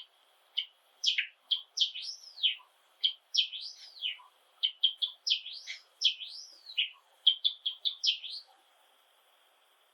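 Male Java sparrow singing: a run of quick clicking notes mixed with arching, swooping whistles, lasting about eight seconds and stopping near the end.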